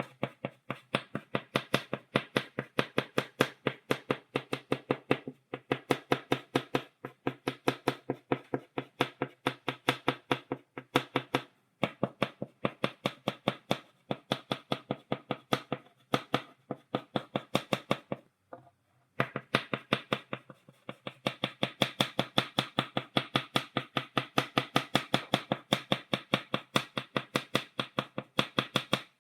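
Chalk tapping rapidly on a blackboard, making dots: a quick, even run of sharp taps, several a second, with a short break about two-thirds of the way through.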